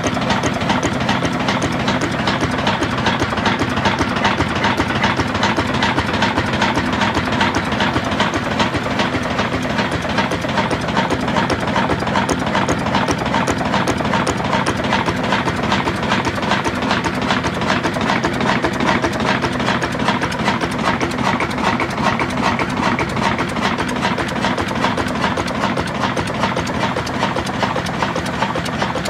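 Old stationary engine and flour-mill machinery running steadily, with a fast, even clatter over a low steady drone.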